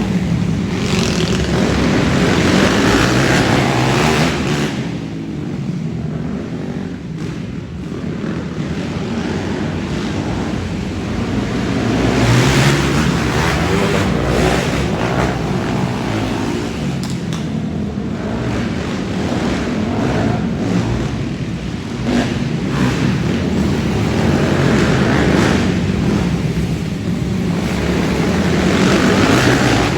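Racing ATV engines revving and passing. The sound swells several times as quads go by, over a steady engine din.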